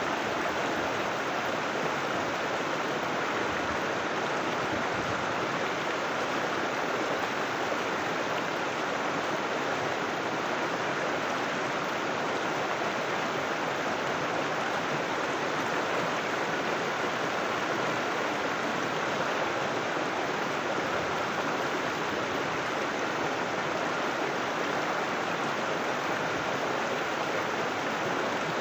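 River water flowing and rushing over rocks, a steady unbroken wash of noise.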